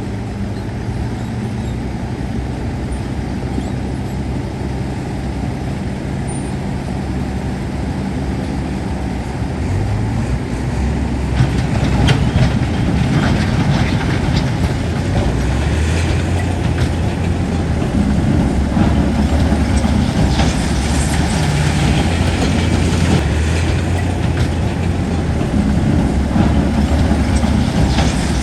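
Heavy diesel engine of earthmoving machinery running, its note shifting and growing louder about ten to twelve seconds in as it comes under load. From then on, clanks and rattles of metal and rock sound over the engine.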